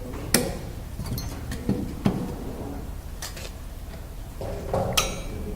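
Scattered sharp clicks and light knocks of a computer's internal cooling fan being handled and taken out, about five in all, over a low steady hum.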